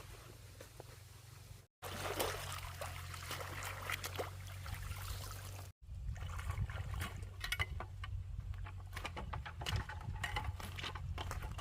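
Water trickling and splashing, with irregular knocks of handling, over a steady low rumble. Two abrupt cuts break it into three pieces, about two seconds in and near the middle.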